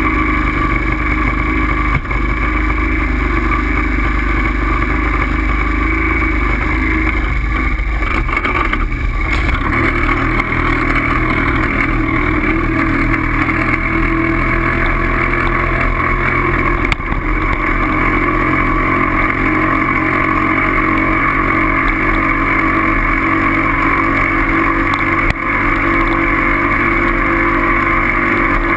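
Steady, loud vehicle running noise: an even drone that holds at a constant pace throughout, with a few brief dips.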